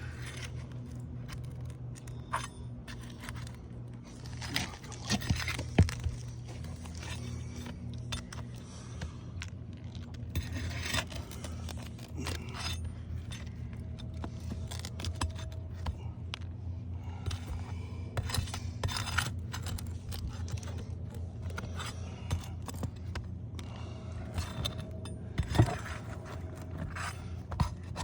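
Metal tool scraping and prying under asphalt shingles as roofing nails are pulled out, with scattered clicks and a couple of sharp knocks. A steady low hum runs underneath.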